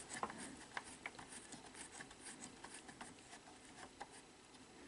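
Faint, scattered small clicks and ticks of the VCR's plastic loading gears and mechanism parts being turned by hand to set them back at their home position.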